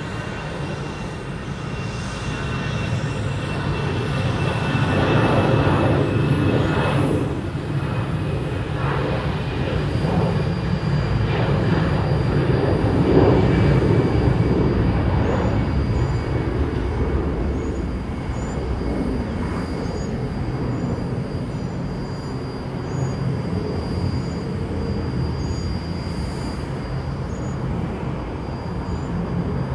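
Jet engines of an American Airlines Airbus A319 as it passes the spotting position: a broad rushing noise with a faint high whine that slowly falls in pitch. It grows loud twice in the first half, then gradually fades.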